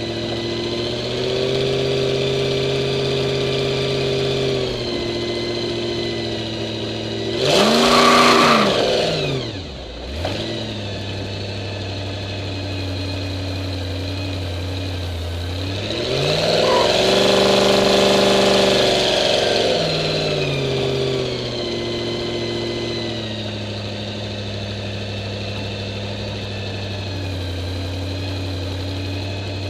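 Supercharged engine of a 1951 Henry J gasser idling, with a sharp throttle blip about a quarter of the way in, the loudest moment, and a longer rev held for a few seconds near the middle before it settles back to idle.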